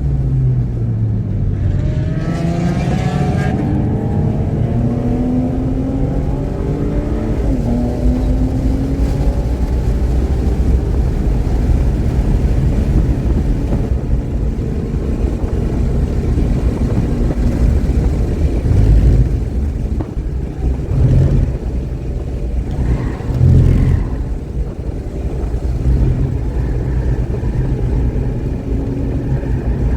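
Car engine under hard acceleration on track, its pitch climbing through the gears and dropping back at each shift, over a heavy low rumble of road and wind noise. The engine runs cleanly, with no misfire.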